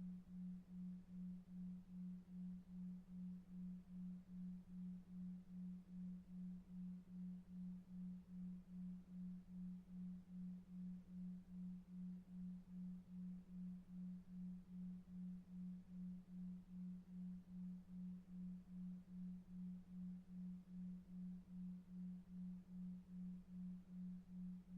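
A low pure tone pulsing evenly about two and a half times a second, a 2.5 Hz delta-wave sleep tone, over a very faint low brown-noise rumble.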